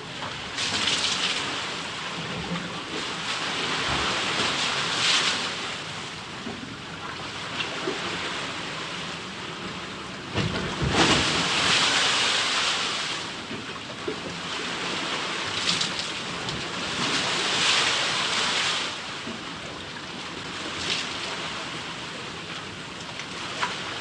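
Recorded water noise: a dense rushing wash that swells and eases in surges every few seconds, with the strongest surge, carrying a low rumble, about eleven seconds in.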